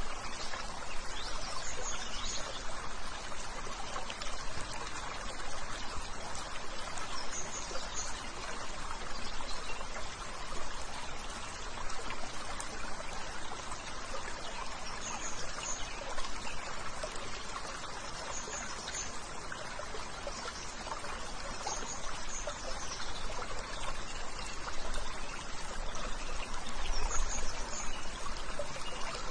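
Water running steadily, like a stream or small waterfall. A short high chirp sounds over it about six times, a few seconds apart.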